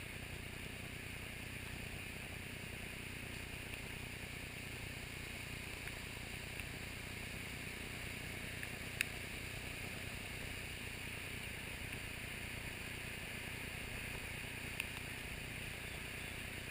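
Floodwater rushing steadily over a road, a constant even rush of water, with one brief click about halfway through.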